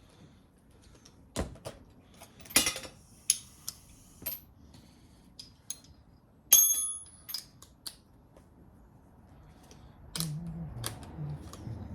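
Metal hand tools clinking and rattling: a run of sharp clicks and clanks, one near the middle ringing on briefly like struck steel.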